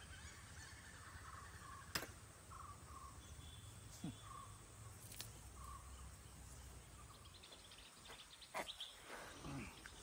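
Quiet outdoor ambience with faint, repeated bird chirps. A few sharp clicks break through, the loudest about two seconds in, with a short cluster of knocks near the end.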